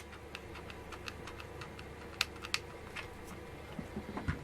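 Light, irregular clicking of a hot glue gun's trigger being squeezed as glue is run onto styrofoam, with two sharper clicks a little past two seconds in.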